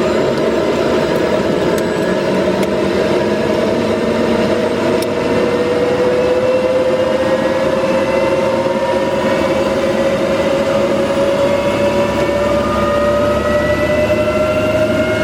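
Helicopter engine and rotor noise heard from inside the cabin, loud and steady, with a whine that rises slowly in pitch as the helicopter climbs just after takeoff.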